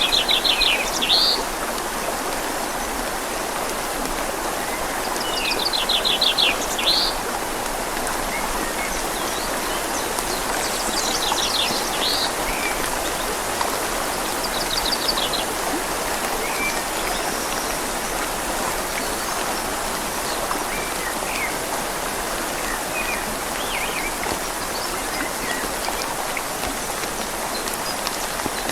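Steady rain falling on leaves and a river flowing, with a bird giving short, high, rapid trills every few seconds in the first half and fainter single chirps later.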